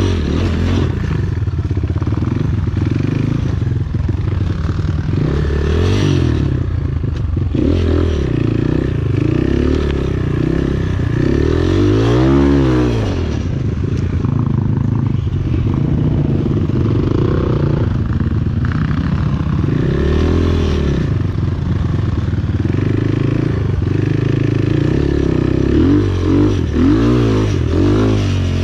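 Enduro motorcycle engine revving up and down over and over as the throttle is worked, with quick blips near the end.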